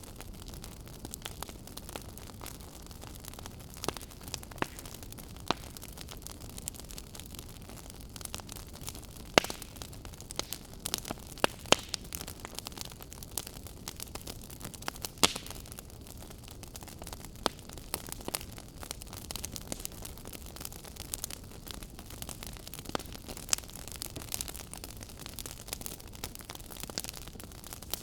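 Crackling fire: a steady low hiss with irregular sharp pops and snaps throughout, a few of them much louder than the rest.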